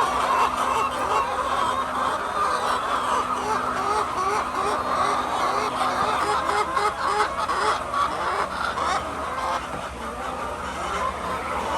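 A large flock of egg-laying hens clucking and calling all together, with a run of short repeated clucks in the middle.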